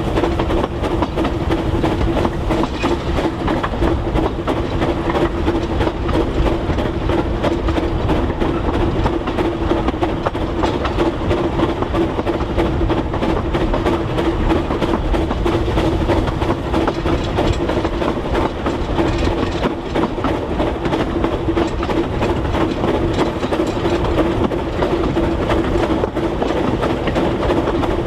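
Narrow-gauge train running steadily along the track: continuous wheel and rail clatter with a steady hum underneath.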